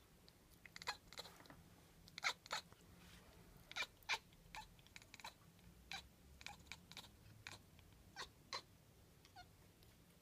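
Domestic cat chattering at birds it cannot reach: short, sharp clicking chirps in scattered bursts, some in quick pairs, with a faint squeaky chirp near the end.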